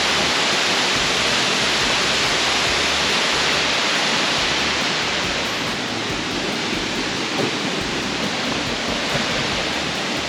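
Waterfall pouring down into a cave: a steady, loud rush of falling water.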